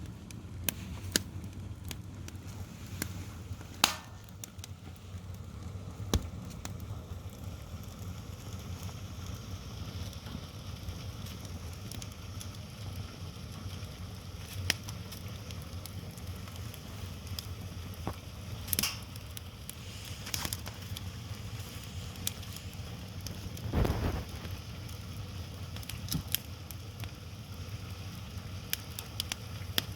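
Firewood burning and crackling, with scattered sharp snaps and a few louder pops over a steady low rumble; a brief, heavier noise comes about four-fifths of the way through.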